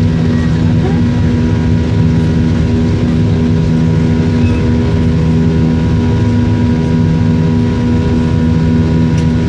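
Aeroplane engines running steadily during takeoff, a loud, even drone of several fixed-pitch tones over a low rumble that neither rises nor fades.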